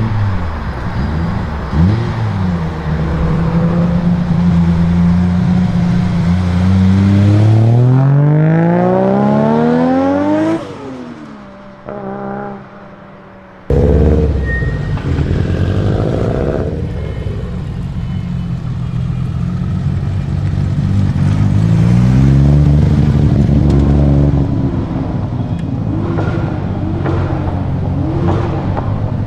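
Sports car engine revving: steady running, then a long climb in revs about seven seconds in that falls away sharply. After a quieter stretch the engine sound cuts back in suddenly and rises and falls again near the end.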